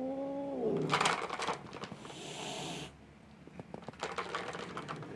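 Bengal cat giving a low guttural growl-yowl, held and then falling away, followed by a hiss about two seconds in, and scratchy rustling near the end.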